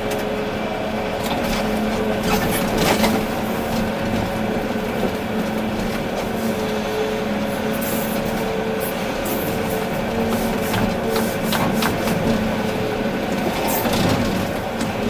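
Volvo EC380D excavator's diesel engine running steadily under hydraulic load, with scattered knocks and rattles from the machine at work.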